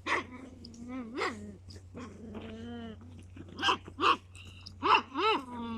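A toddler's wordless vocalizing: a string of short, pitched calls and whines, loudest in the second half, over a steady low hum.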